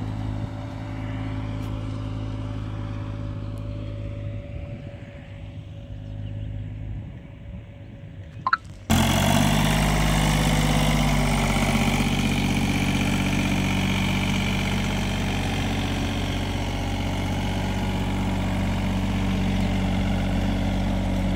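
An engine hums low for several seconds. About nine seconds in there is a sharp click, then a sudden jump to a much louder engine running steadily.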